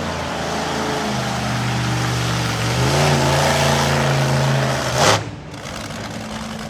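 Monster truck engine revving hard, building over several seconds, then a single loud crash about five seconds in as the truck slams down on the crush cars, after which the engine falls back.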